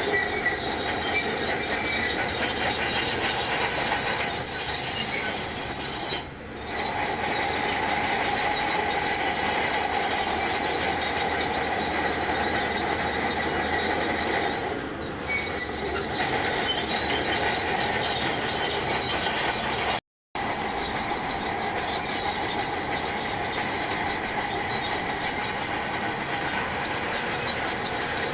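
Crawler bulldozer (Shantui DH17C2) working, its engine running under a steady, high metallic squeal and grinding from the steel tracks. The sound dips briefly twice and cuts out completely for a moment about two-thirds of the way through.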